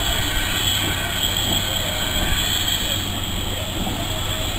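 Tank locomotive in Thomas the Tank Engine livery passing slowly with its coaches, a steady train sound with no sharp events.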